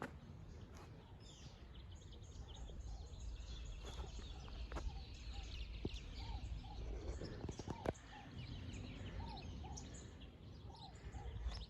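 Birds calling in the neighborhood: high chirps throughout, and from about halfway a run of short rising-and-falling call notes, over a faint low rumble.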